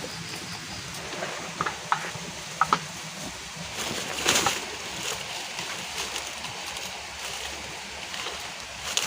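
Steady rain hiss with a few short, sharp clinks and knocks in the first three seconds, and a brief splashing of water about four seconds in.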